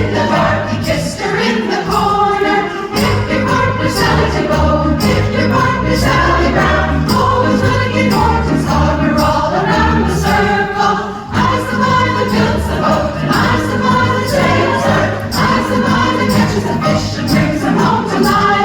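Women's chorus singing a song, with instrumental accompaniment carrying a steady beat and bass line.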